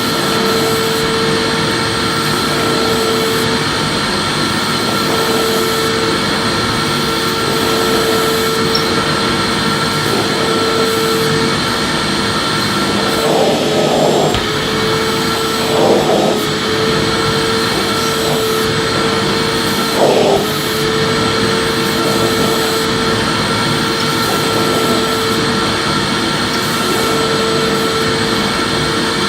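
Electric vacuum cleaner running steadily while vacuuming: a constant rushing noise with a steady motor whine. Around the middle there are three short bumps in the sound.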